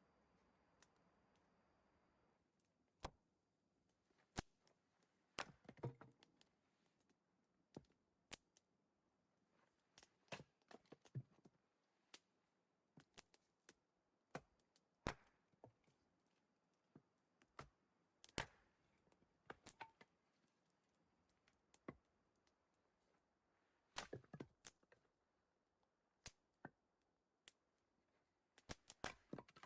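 Sparse, irregular faint clicks and light knocks, a few dozen of them, with near silence between.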